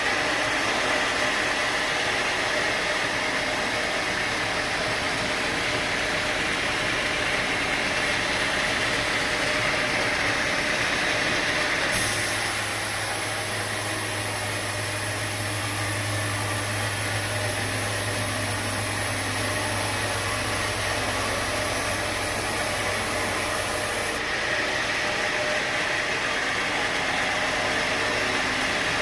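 Sawmill machinery running steadily with an even mechanical noise. About twelve seconds in, a deep hum and a high hiss join suddenly, and about twelve seconds later they cut off just as suddenly.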